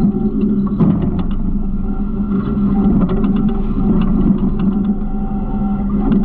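Garbage truck engine running steadily, with frequent clicks and rattles.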